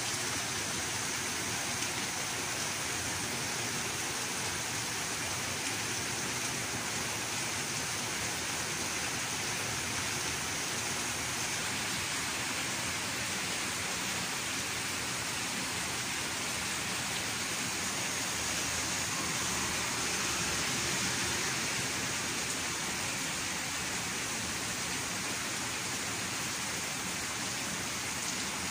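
Gentle, steady rain falling on wet pavement, tiles and leaves, an even hiss that holds at the same level throughout.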